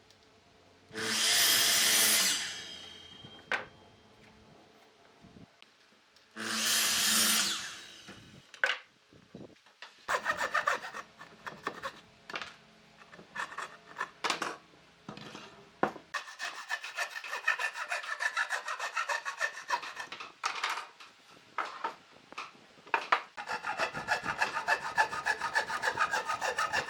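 Wood being sawn by hand: a long run of fast, repeated sawing strokes that gets louder toward the end. Before it come two short, loud bursts of another tool on the wood, a few seconds apart.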